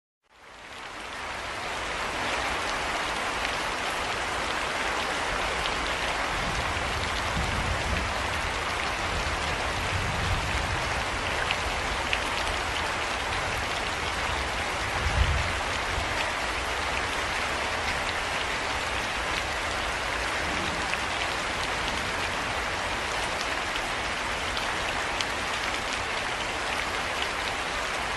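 Steady heavy rain falling and pattering on surfaces, fading in over the first couple of seconds, with scattered sharper drop ticks. A short low thud comes about halfway through.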